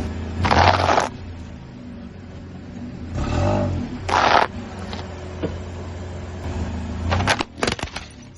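A steady motor hum with loud crunching noises in several bursts: one about half a second in, two between three and four and a half seconds, and a quick run of short crunches near the end.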